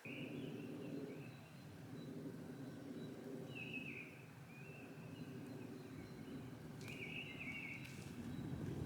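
A small bird singing short, warbling phrases several times over a steady low rushing background.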